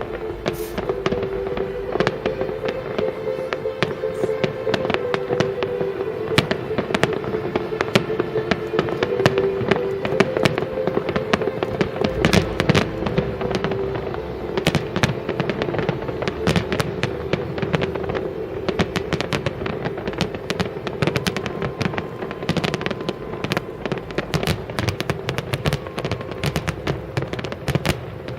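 Fireworks display going off densely: a rapid, continuous run of bangs and crackling bursts. Steady sustained tones that change pitch every few seconds run beneath it.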